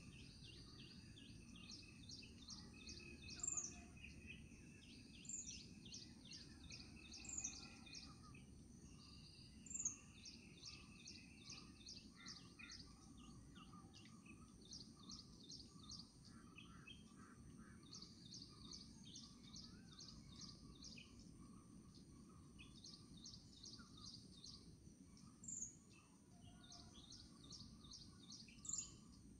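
Small birds chirping faintly: bouts of quick, high trills, with a few louder single high chirps that drop in pitch, over a low, steady background rumble.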